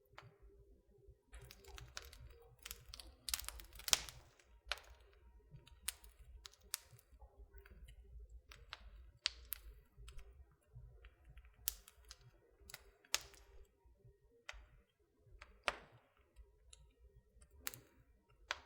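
Wood fire in an open fireplace crackling, with irregular sharp pops and snaps, the loudest about four seconds in.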